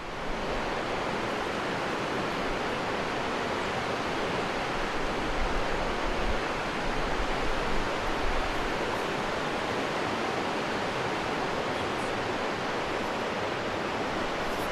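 Rushing mountain river: a steady, unbroken rush of fast white water.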